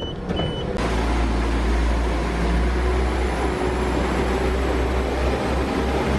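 Two short high beeps from a train's door-open button, then a class 172 diesel multiple unit pulling out along the platform: a steady deep engine rumble under a rushing noise.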